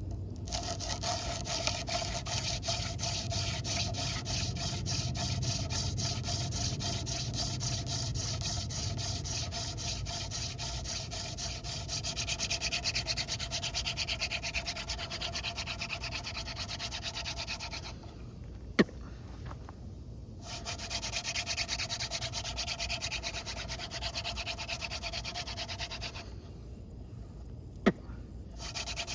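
Hand drill fire-making: a dogfennel spindle spun fast between the palms in a notch in a tulip poplar fireboard, giving a steady rhythmic rubbing of wood on wood as the notch fills with dust toward an ember. The drilling stops twice, about two-thirds of the way through and again near the end, and each pause holds a single sharp click.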